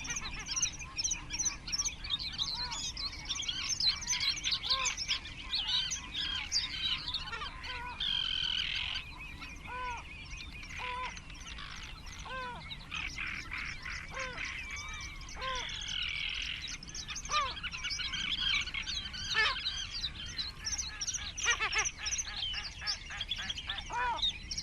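Waterbird calling, a short, clipped call repeated roughly once a second, over a dense chorus of small songbirds singing high and fast.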